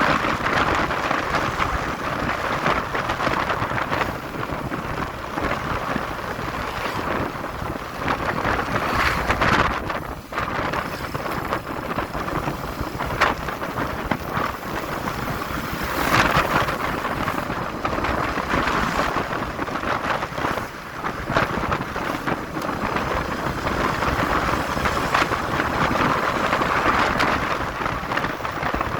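Wind rushing over the microphone on a moving motorcycle, with road and engine noise mixed in; the rush swells and dips every few seconds.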